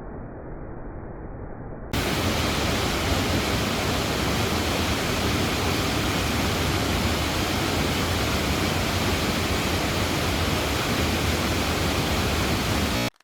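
Steady rushing of a mountain waterfall. It is muffled and quieter for about two seconds, then abruptly becomes louder and fuller, and it cuts off suddenly at the end.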